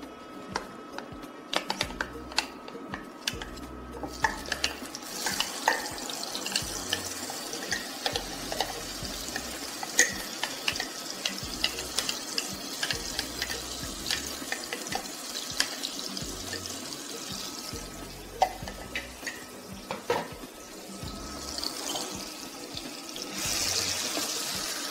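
A spoon clicking against a plastic jar as chilli spice paste is scraped out, then the paste sizzling steadily in hot oil in a nonstick wok from about four seconds in. Near the end a wooden spoon stirs the paste around the pan and the sizzle grows louder.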